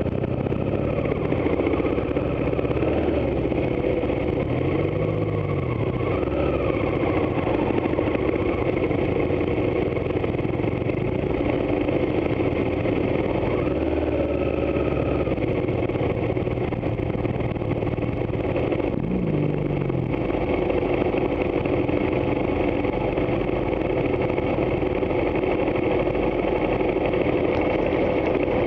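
Adventure motorcycle engine running at low speed on a rough dirt track, the revs rising and falling briefly a couple of times, then running steadily for the rest of the stretch.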